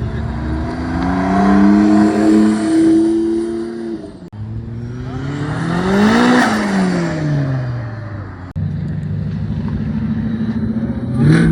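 Car engines and exhausts under throttle. An engine revs up and holds its revs, then a car accelerates past with its pitch rising and falling, then a steady low exhaust rumble. The sound changes abruptly twice.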